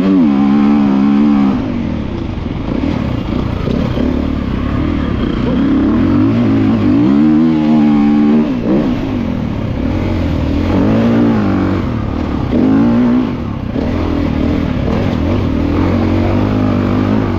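A 2024 GasGas EC350F's single-cylinder four-stroke engine heard from on board while riding, the engine note rising and falling several times as the rider opens and closes the throttle through the sandy track.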